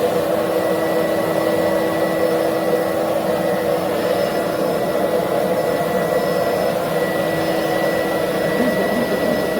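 Jimmy JV35 handheld mattress vacuum running steadily: an even motor rush with a steady hum and a thin high whine.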